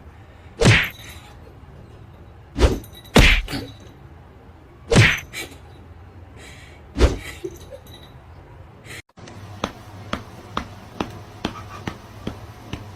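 Five loud thumps spread over about seven seconds. After a brief break, a run of lighter, evenly spaced knocks follows, about two a second.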